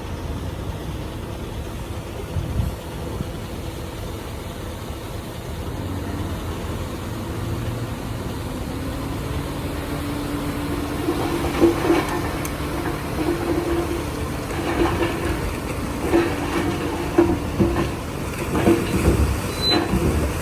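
Bulldozer's diesel engine running, and from about halfway through its steel crawler tracks squealing and clanking in a steady rhythm as the machine travels.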